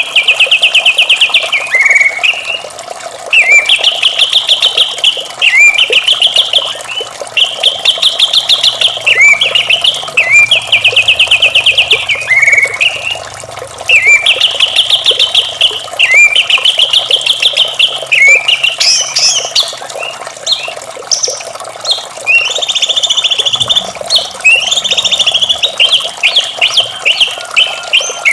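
White-rumped shama singing: phrase after phrase of rapid, pulsed notes, each about a second long, separated by short pauses. Beneath the song runs a steady wash of running water.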